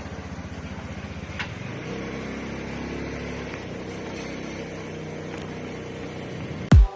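Car engine running steadily as the car sets off, its pitch shifting slightly about two seconds in. Near the end a deep, falling electronic kick drum comes in.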